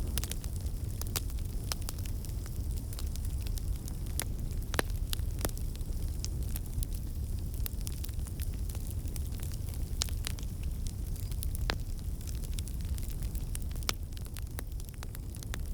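Wood fire crackling: irregular sharp pops and snaps over a steady low rumble of the burning flames.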